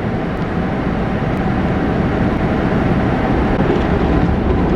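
Automatic car wash running: a steady, loud rush of water spray and machinery, heard from inside a car with a window rolled down.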